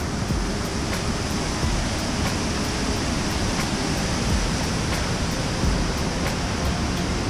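Waterfall: falling water rushing in a loud, steady, unbroken noise.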